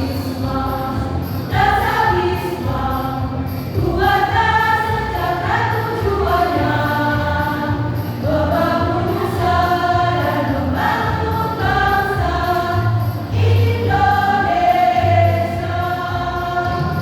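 A choir singing a song in parts, the sung notes held and changing every second or so, over an accompaniment of low bass notes.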